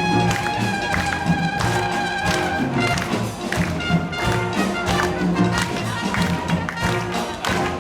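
Wind band playing: held notes over a steady percussion beat.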